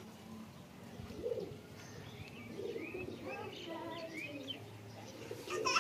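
Faint bird calls: several short rising chirps, with lower, rounder calls underneath.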